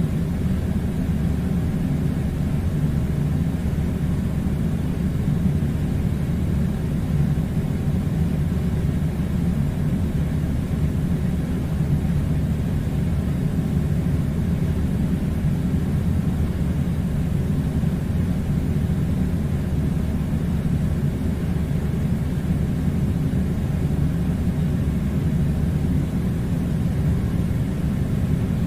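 A steady, unchanging low rumbling drone, with no speech.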